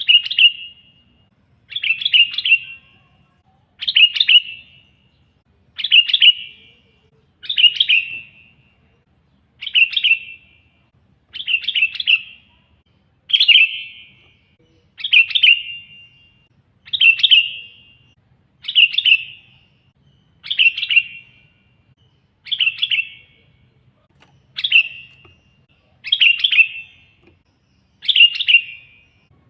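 Sooty-headed bulbul (kutilang) in full, vigorous song: a short, loud chattering phrase repeated evenly about every second and a half to two seconds.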